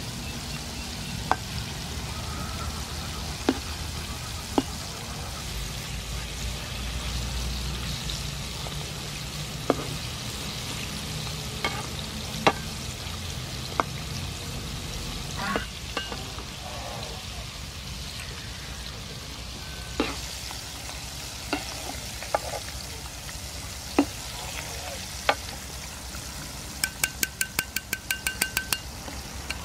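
Battered squid rings deep-frying in hot soybean oil: a steady sizzle with sharp clicks now and then. Near the end comes a quick run of about a dozen ringing metallic taps as a wire strainer lifts the rings from the pan.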